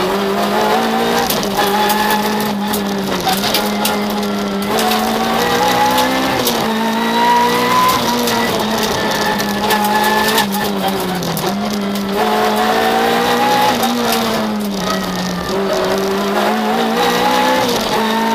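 Citroën Saxo VTS rally car's four-cylinder engine, heard from inside the cabin. It revs hard, climbing in pitch and falling back again and again at each gear change or lift between corners.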